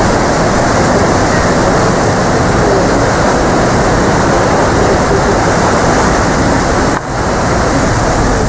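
Paddle wheels of the PS Waverley churning the water astern while manoeuvring to berth, a loud steady rushing that dips briefly about seven seconds in.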